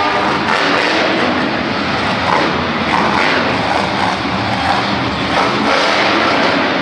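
Monster truck engine running loud and revving, its pitch swelling and falling a few times, in a large echoing hall.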